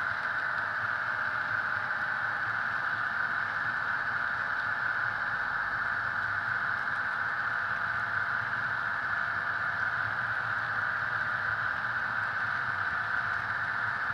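Sound decoder in an HO-scale model diesel locomotive (Soundtraxx Tsunami) playing a steady EMD diesel engine sound through the model's small speaker, with no change in pitch or level.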